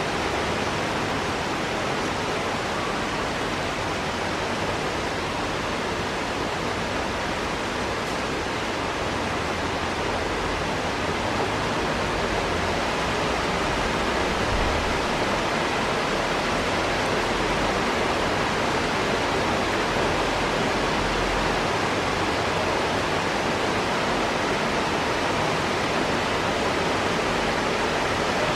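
Heavy rain falling steadily in a rainstorm, a dense, even hiss that grows a little louder about eleven seconds in.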